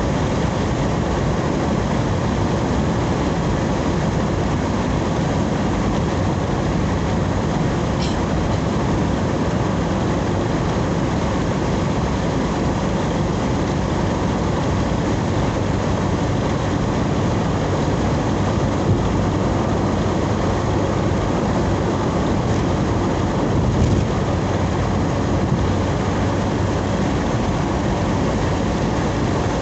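Steady road and engine noise of a moving vehicle heard from inside the cabin. There is a brief click about eight seconds in and a short louder bump about two-thirds of the way through.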